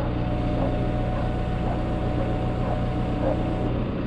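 Engine running steadily at an even speed, a low, constant drone.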